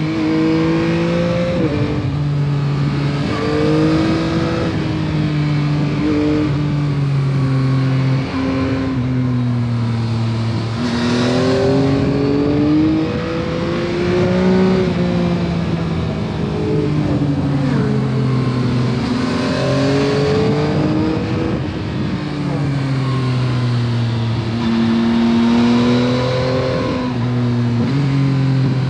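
2021 Yamaha MT-09 SP's inline three-cylinder engine through its stock exhaust under way, its note rising under throttle and dropping at each gear change or roll-off, again and again, over steady wind rush.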